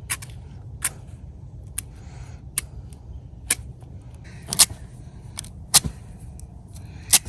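Matches being struck against the box again and again without catching: about eight short, sharp scrapes, roughly one a second.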